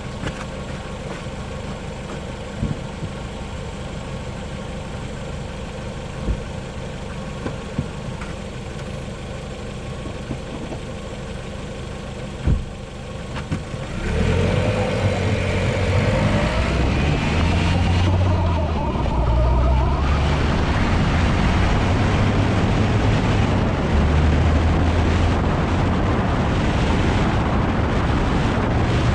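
LADA Vesta SW Cross with a 1.8 petrol engine driving on a highway: steady tyre and road noise with a few single knocks from the suspension over bumps, then about halfway through it gets louder as the car accelerates, the engine note rising for several seconds over heavier road and wind noise.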